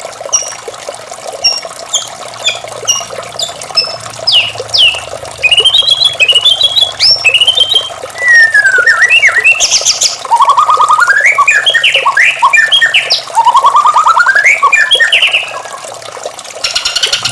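White-rumped shama (murai batu) singing: a run of short, evenly spaced high notes, then from about five seconds in a loud, varied song of whistled glides and fast trills with a few harsh rasping notes. Steady running water in the background.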